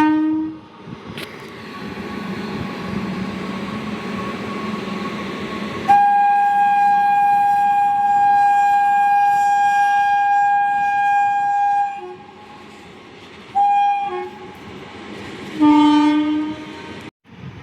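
Indian Railways locomotive horns over the rumble of a passing train: a low horn cuts off just after the start, then a long higher horn note sounds for about six seconds, followed by a short blast of the same high note and then a short low horn blast near the end.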